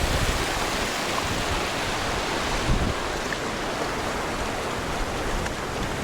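Ocean surf washing over rocks, a steady rushing noise, with gusts of wind rumbling on the microphone.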